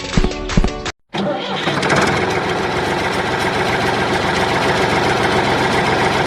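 Music cuts off about a second in, then an engine starts up and runs steadily with a fast, even pulse.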